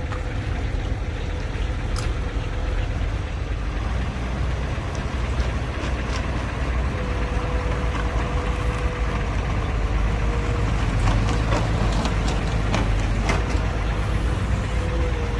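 Diesel engines of heavy earthmoving machines running steadily under load, with a faint steady whine and several sharp metallic knocks in the last third.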